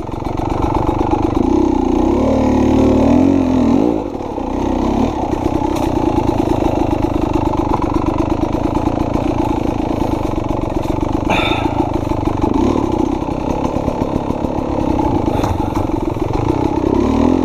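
Beta two-stroke enduro dirt bike engine grunting at low revs as it pulls through technical terrain, the revs rising and falling in the first few seconds, then holding steady. A brief sharp clack about eleven seconds in.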